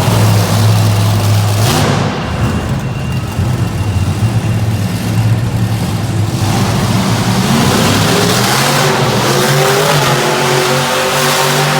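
Monster truck engine running hard, held steady at first, then climbing in pitch as it revs up over the last few seconds.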